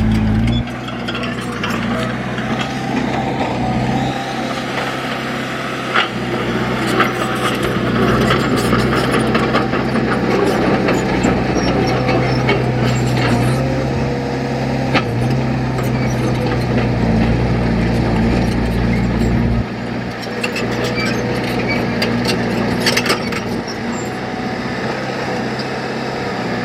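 Diesel engine of a heavy earth-moving machine running under changing load, with occasional sharp knocks and scraping.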